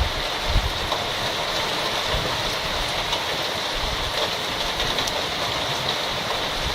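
Heavy rain falling steadily in a thunderstorm, a constant hiss, with a few low puffs of wind on the microphone about half a second in.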